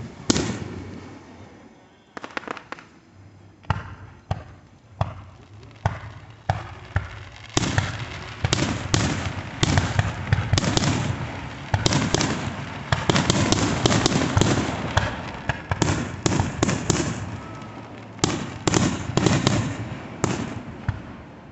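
Fireworks going off: a string of sharp bangs that thickens into a dense, rapid crackling barrage about a third of the way in, then thins back to separate bangs near the end.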